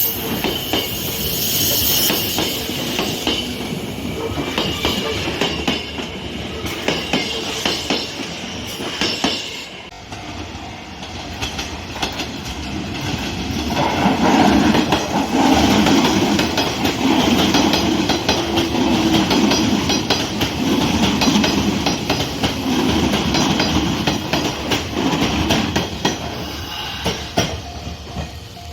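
Electric train wheels clattering over rail joints on the Sanyo Electric Railway line, with a steady run of clicks. The clatter drops off about ten seconds in, then builds again and comes in heavy repeated clack groups every second or two as the wheelsets cross the joints.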